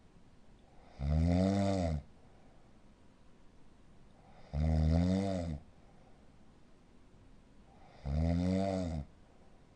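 Corgi snoring in its sleep: three snores about three and a half seconds apart, each lasting about a second, with a pitch that rises and then falls.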